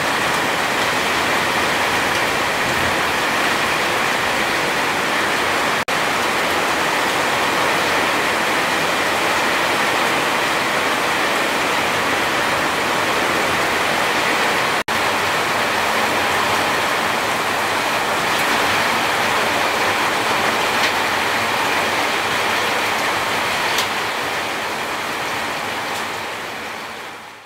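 Heavy rain pouring down in a dense, steady hiss, broken by two very short dropouts about six and fifteen seconds in, then fading out at the end.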